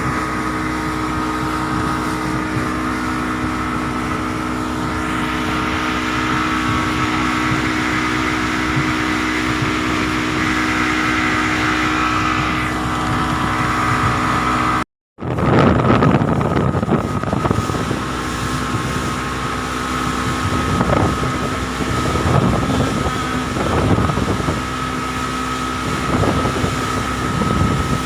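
Boat engine running steadily, with a constant hum, and wind buffeting the microphone in gusts. The sound cuts out completely for a moment about halfway through.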